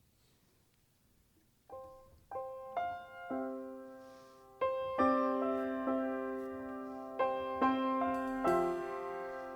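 Piano starts playing about two seconds in: a few single notes, then slow, held chords that ring and fade between strikes.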